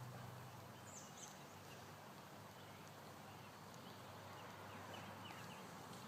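Near silence: faint outdoor background hiss with a few faint, short bird chirps, several quick peeps together about two-thirds of the way through.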